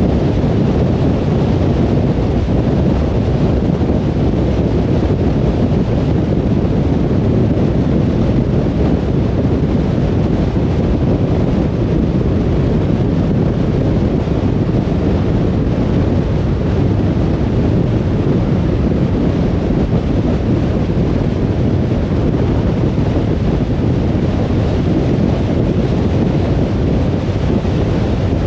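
Steady road noise of a car driving: a constant low rumble of tyres and wind, with no changes or separate events.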